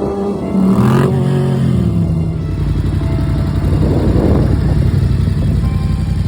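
Motorcycle engine revving up briefly about half a second in, then dropping back to a lower, steady run, with a short noisy swell partway through.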